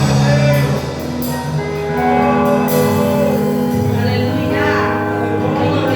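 Live church worship music: held keyboard chords that change a few times, a wavering sung line over them and a few light cymbal strokes.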